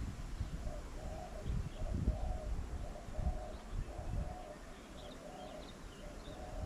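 A bird cooing in a steady run of short, low notes, about two a second, with faint chirps of small birds above it. Wind rumbles on the microphone.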